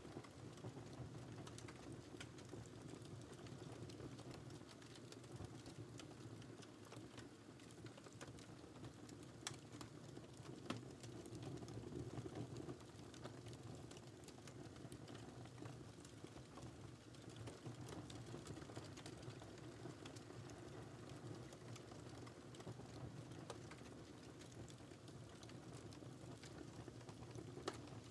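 Wood fire burning in a fireplace: a faint, steady low rumble of flames with scattered small crackles and a few sharper pops.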